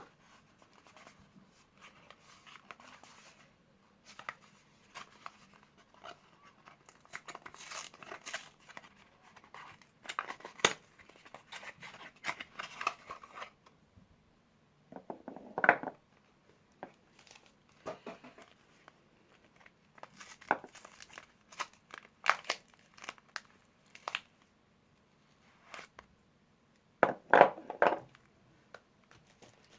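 Soap bar wrappers being torn open and crinkled by hand, in irregular crackling rustles, with louder bursts about halfway through and near the end.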